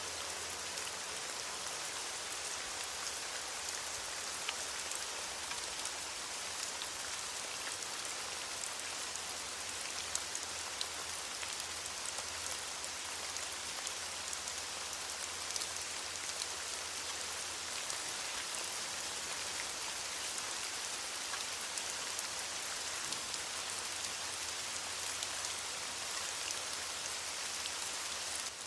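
Steady rain falling on leaves: an even hiss with many small, scattered drop ticks.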